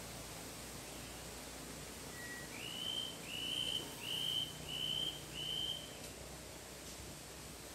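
A series of five short whistled notes, each sliding up quickly and then holding, evenly spaced about two-thirds of a second apart, after one fainter lower note.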